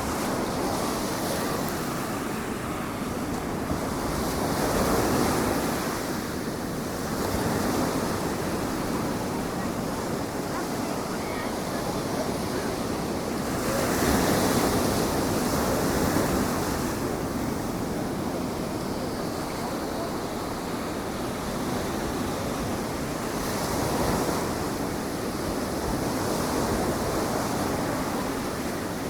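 Atlantic surf breaking on the beach, a steady wash that swells every few seconds as waves come in, with wind on the microphone.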